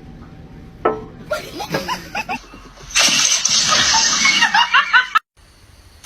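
Human laughter in short bursts, loudest and most breathy in its second half, then cut off abruptly about five seconds in.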